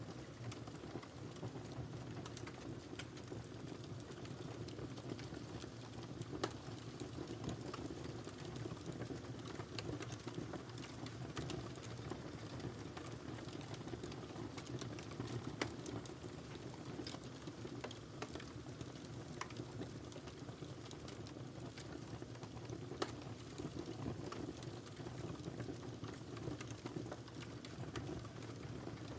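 Wood fire burning in a fireplace: a steady hiss and rustle of flames with irregular small crackles and an occasional louder pop.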